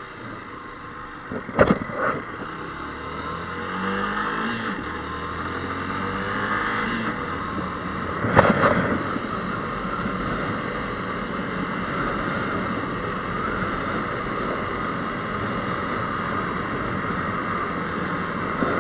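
Motorcycle engine under way, its pitch rising as it accelerates about four seconds in, over a steady rushing noise. Sharp knocks sound about one and a half seconds in and again about eight seconds in.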